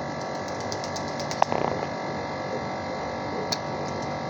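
Steady electrical hum, with a few light clicks and one short sharp sound about one and a half seconds in.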